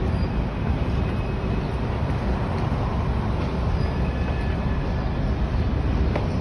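Freight train of coal cars rolling past: a steady rumble of steel wheels on the rails, with a faint thin squeal now and then.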